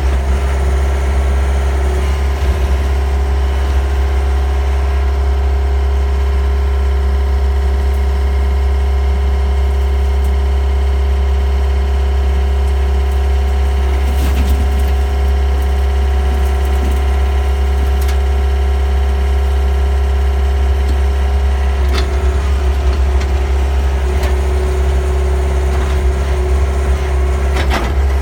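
John Deere 60G compact excavator's diesel engine running at a steady speed while it works, with a few sharp knocks from the machine partway through and near the end.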